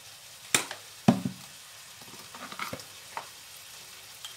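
Onions, tomatoes and chicken sizzling in a stainless steel frying pan as salt is added and stirred in, with a handful of sharp utensil knocks against the pan, the loudest about a second in.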